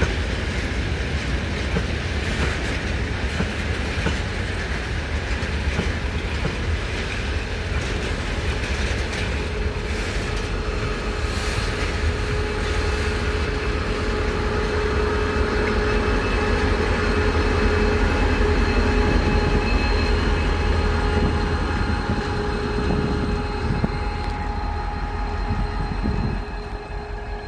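Freight train's wagons rolling past, wheels clattering over the rails with a steady tone running under the noise. The noise drops near the end as the train clears.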